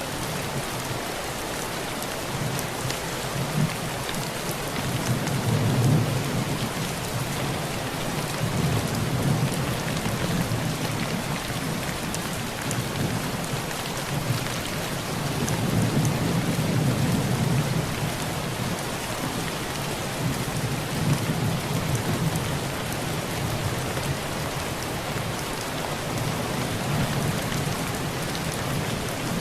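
Heavy rain drumming on a tin roof: a steady, dense hiss of drops. Low thunder rumbles under it, swelling and fading several times, most strongly about six seconds in and again for a few seconds around the middle.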